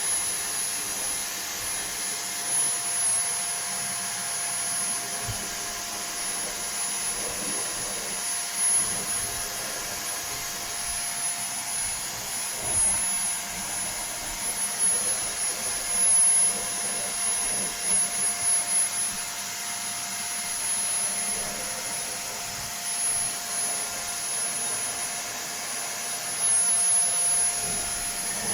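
Vacuum cleaner running steadily, a constant high whine over a motor hum and rushing air, its loudness swelling briefly now and then.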